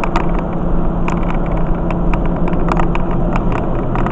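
Steady engine and road drone of a vehicle being driven, heard from inside, with a low constant hum and scattered light clicks.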